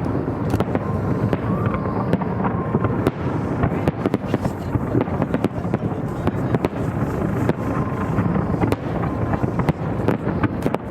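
Fireworks exploding in a dense, continuous barrage: many sharp bangs and crackles in quick succession over a rumbling background, with a faint whistle-like tone a couple of times.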